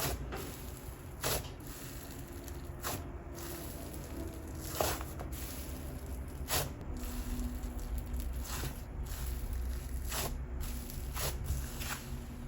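Soft DIY clay slime being squished and stretched by hand, with short sticky clicks and small pops every second or two.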